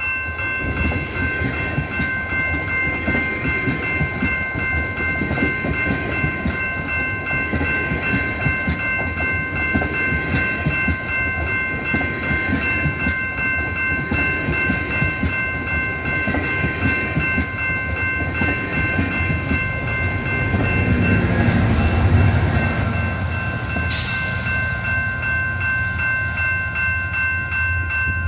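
Passenger train rolling through a level crossing, wheels clattering over the rails, while the crossing's warning bell rings steadily. About twenty seconds in, the diesel locomotive's engine passes and the rumble grows louder. There is a single sharp click shortly after.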